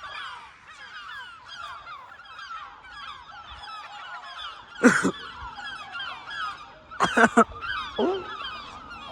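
A big flock of gulls calling over one another in a dense, continuous chorus of short falling calls, with crows cawing among them. A few louder, closer calls stand out about five seconds in and three in quick succession about seven seconds in.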